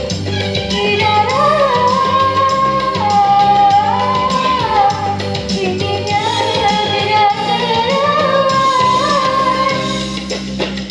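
A solo singer holding long, sliding notes over a band backing track with bass and drums.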